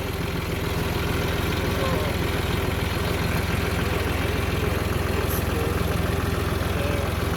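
Vehicle engine running steadily with a constant low rumble.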